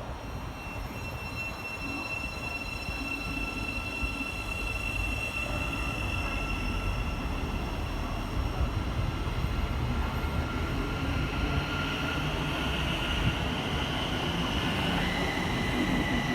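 A train moving through the station: a steady high-pitched whine over a low rumble, slowly getting louder, with a second, lower whine joining near the end.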